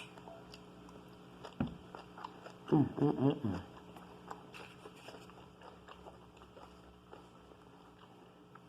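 Close chewing and small wet mouth clicks of a person eating, with a brief hummed "mmm" about three seconds in. A dull knock comes just before the hum.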